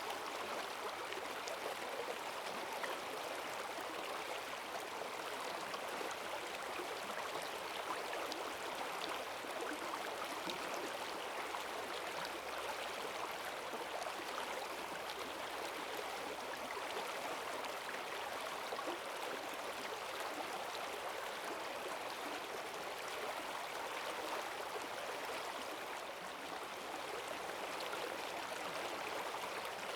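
Rain-swollen forest stream rushing over its bed: a steady, even sound of strong running water with no breaks.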